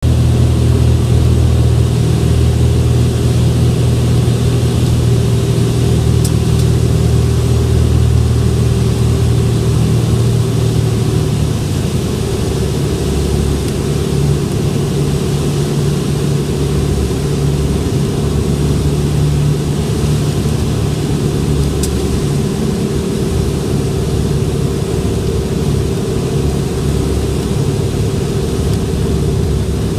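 Cessna 185 floatplane's piston engine and propeller heard from inside the cockpit, a loud steady drone. About eleven seconds in, the drone gets a little quieter and its pitch changes.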